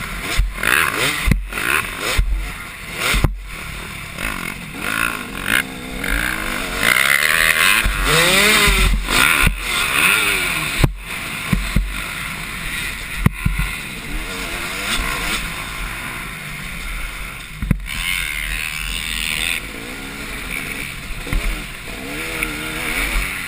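Two-stroke motocross bikes racing on the track, engines revving up and falling back again and again as riders work the throttle through corners and jumps.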